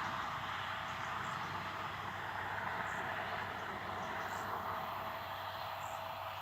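Farm machinery running in a steady engine drone with a faint constant hum, slowly growing fainter.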